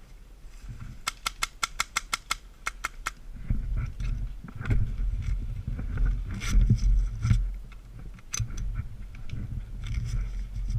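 Airsoft gun firing: a quick string of about ten sharp shots, roughly five a second, about a second in. After that come low thumps and rustling from the player moving with gear.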